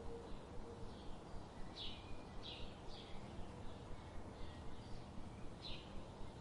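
A bird chirping: short, high chirps repeated at uneven intervals over a steady background hiss with a faint hum.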